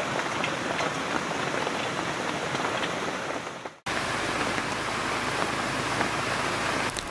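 Steady hiss of heavy rain and running stream water. The sound drops out for an instant just before four seconds in, then resumes unchanged.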